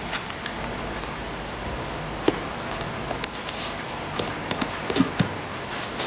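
Origami paper being folded and creased: scattered light crackles and ticks, several close together near the end, over a steady hiss.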